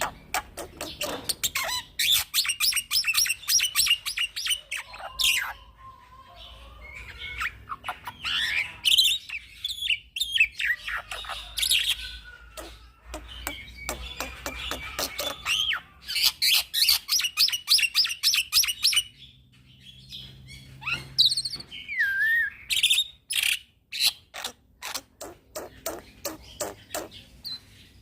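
Young black-winged myna (jalak putih) singing: fast runs of short, sharp chattering notes, broken by slurred whistles and harsher calls.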